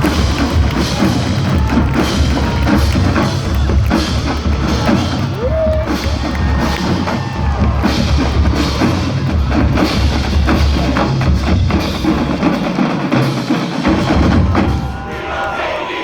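Marching band drumline playing a fast drum break, with snare strikes over heavy bass drums, easing off about a second before the end.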